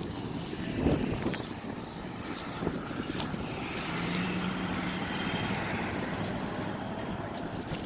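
Road traffic with wind buffeting the microphone, and a steady engine hum from about four seconds in.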